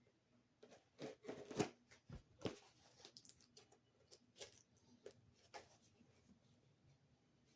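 Faint, scattered scrapes, taps and clicks of hands working at a cardboard shipping box to get it open.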